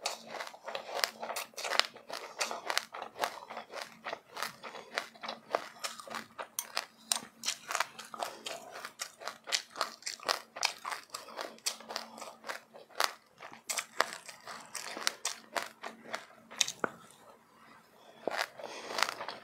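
A person chewing and crunching sesame seeds with passionfruit, rapid crunches several a second, easing off briefly near the end.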